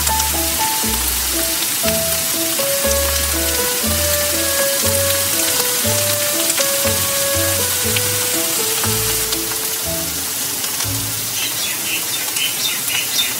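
Butter garlic mushrooms in a sauce sizzling in a non-stick frying pan, a steady hiss, with background music (a melody over low bass notes) playing along.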